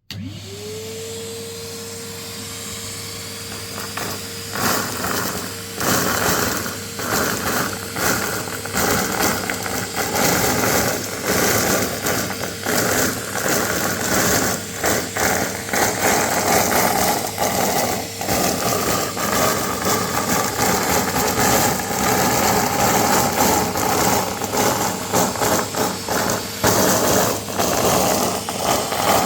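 Vacuum cleaner switched on, its motor rising in pitch within half a second to a steady tone. After about four seconds it starts sucking up confetti: a dense, rapid clatter of small pieces rattling through the nozzle over the running motor.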